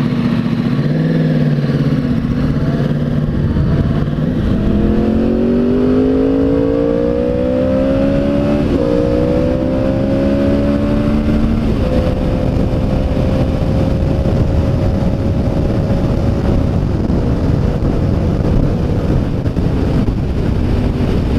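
Sport motorcycle engine accelerating through the gears. Its note climbs, drops at an upshift, climbs again, drops at a second upshift, then holds steady at highway cruising speed, over a constant rush of wind.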